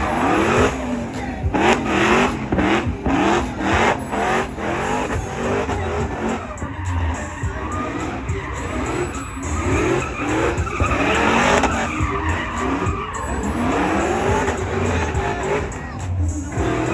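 A car engine revving over and over with tyres squealing, as in a burnout.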